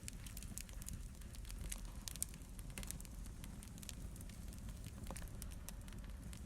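Wood fire burning in a fireplace: a low steady rumble of flames with irregular sharp crackles and pops throughout, one of the louder pops about two seconds in.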